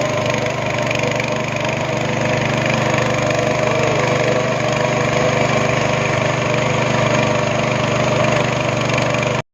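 Speedboat engine running steadily at high speed, a continuous even drone.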